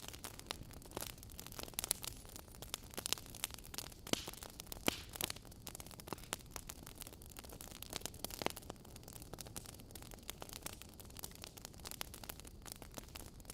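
Wood fire burning in a fireplace: burning logs crackling with irregular sharp pops over a low steady hiss.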